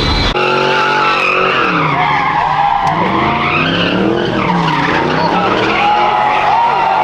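Car engine revving up and down repeatedly while its tyres squeal under wheelspin, as in sideshow donuts or a burnout.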